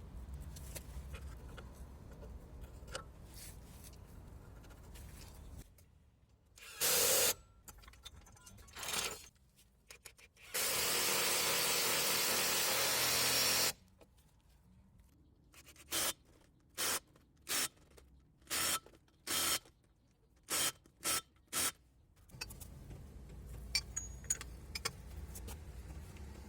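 Hissing spray bursts: two short ones, then one steady hiss of about three seconds, then a quick run of about nine short bursts. A low rumble sits underneath before and after them.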